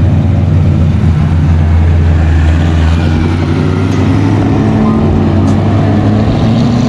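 Car engine running with a deep, steady low rumble, rising in pitch near the end as it accelerates.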